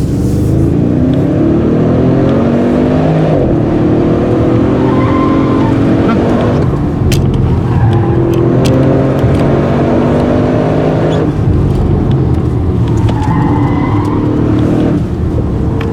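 Audi RS6's twin-turbo V8 accelerating hard, its pitch climbing and then dropping back at each of several upshifts.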